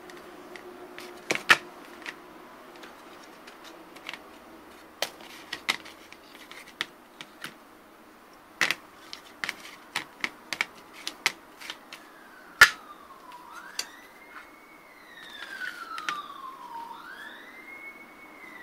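Irregular sharp clicks and knocks, about a dozen and a half, each brief. From about two-thirds of the way in, a siren wails, its pitch rising and falling twice.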